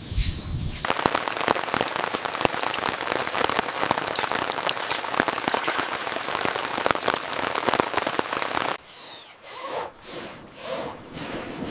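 Heavy rain falling, a dense hiss of many drop hits on a surface. It cuts off abruptly about nine seconds in, leaving a much quieter stretch.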